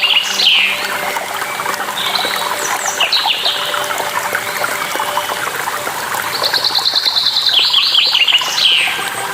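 A songbird singing fast trilled phrases that end in a few falling notes, about two seconds in and again for a longer phrase near the end, over the steady rush of a waterfall.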